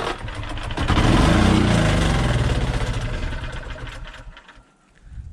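Small generator engine firing on starter fluid: it catches and speeds up for a couple of seconds, then slows and dies about four and a half seconds in.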